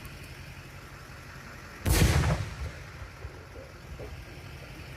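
A single loud boom from a large aerial firework shell about two seconds in, dying away over about half a second.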